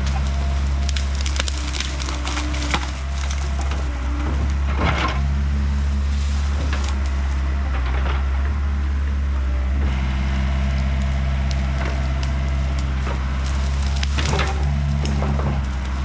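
Excavator's diesel engine running steadily while fallen hickory wood cracks and splinters, with sharp snaps scattered throughout, the clearest about five seconds in and near the end.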